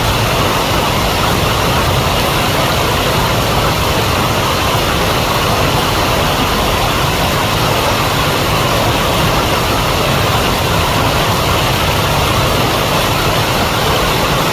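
River water rushing steadily, a loud even noise.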